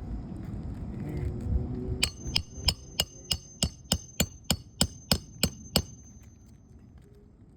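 Hammer driving a roofing nail into an asphalt shingle: about a dozen quick ringing strikes, roughly three a second, starting about two seconds in after some low rustling.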